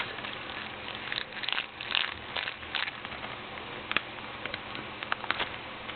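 Rustling and scattered short clicks of a DVD case and its packaging being handled and unwrapped.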